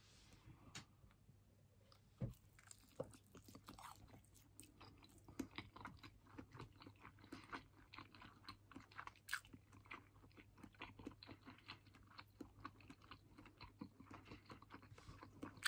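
A person biting into and chewing a piece of miso-coated karaage (Japanese fried chicken): faint, irregular small clicks throughout, with one louder knock about two seconds in.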